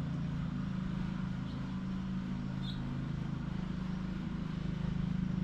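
A steady low mechanical hum, like a running motor or fan.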